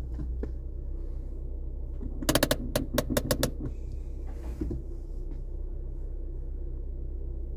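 Car engine idling with a steady low rumble, broken a couple of seconds in by a quick, irregular run of about eight sharp clicks lasting about a second.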